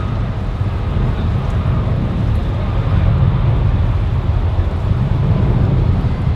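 Jet airliner's engines, a deep steady rumble with a faint whine above it, growing a little louder about halfway through.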